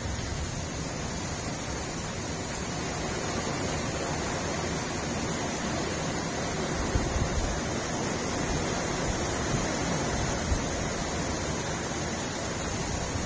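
Heavy rain pouring down steadily, with gusts of wind.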